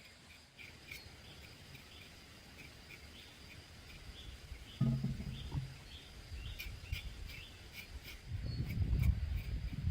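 Small birds chirping in short repeated notes over a faint steady insect hum. A sudden short low sound comes about five seconds in, and a low rumbling noise builds from about eight seconds.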